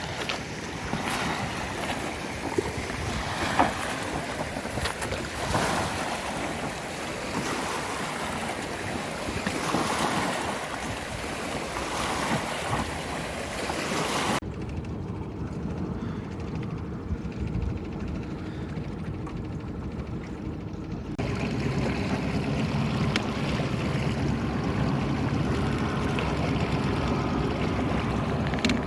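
Honda 20 hp four-stroke outboard running at cruise on a 14-foot aluminum boat, with wind and water spray hissing on the microphone. About halfway through, the hiss drops away for several seconds; after that the engine's steady hum is plainer and a little louder.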